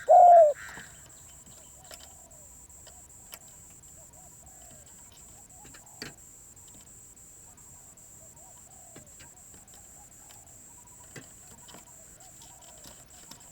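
Spotted dove cooing: a loud coo phrase ending about half a second in, then faint coos repeating through the rest, with a few soft clicks and a steady high hiss.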